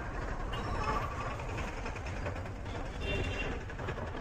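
Motorcycle running on a town road, a steady low engine rumble mixed with wind and road noise.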